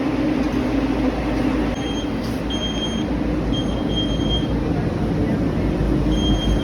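Steady low background noise of a tram station, with a hum for about the first two seconds. From about two seconds in, a high electronic beep sounds in short tones, about five times, at uneven gaps.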